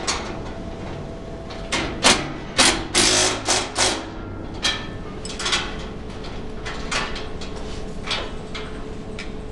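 Knocks and scrapes from fitting a stainless-steel exhaust duct, with a quick run of five or six about two to four seconds in and a few scattered ones after, over a steady hum.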